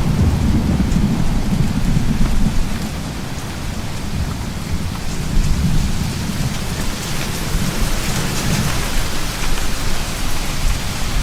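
Thunderstorm: steady heavy rain with low rolling thunder underneath, the rumble swelling in the first couple of seconds and again near the end as the rain grows heavier.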